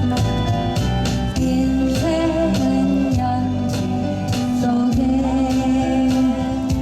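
Live cover of a Korean folk song: a singer holding long notes over acoustic guitar and accompaniment with a steady beat.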